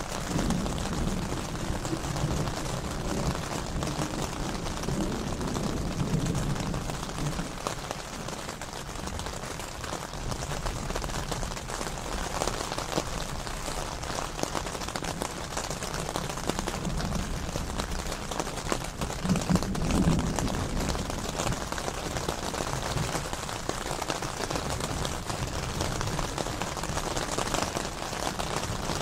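Steady rain falling in a mountain thunderstorm, with low rumbling swells underneath in the first few seconds and again about two-thirds of the way through.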